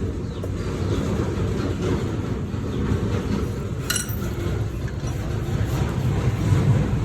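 Kubota M6040SU tractor's diesel engine running with a steady low rumble, with a single sharp clink about four seconds in.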